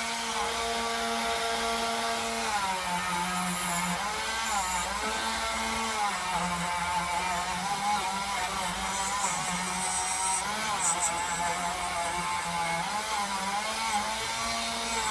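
Small electric power tool motor running steadily, its pitch sagging and recovering several times as it works under changing load.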